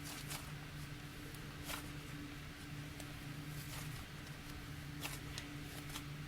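Slime with sprinkles mixed in being squished and worked by hand, giving soft irregular clicks and crackles over a steady low hum.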